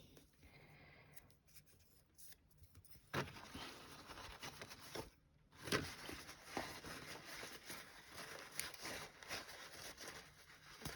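Soft, irregular scratching and rustling from close-up handwork on a small piece at a desk, starting about three seconds in, with a brief pause a little after five seconds.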